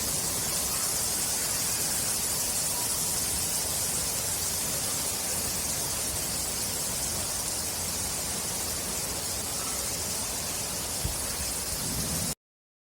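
Steady hiss of heavy rain falling, which cuts off abruptly near the end.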